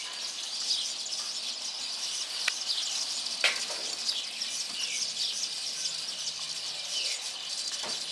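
Weaver birds chattering: many short, quick, downward chirps overlapping in a steady colony chorus. A few sharp clicks sound through it, about two and a half, three and a half and eight seconds in.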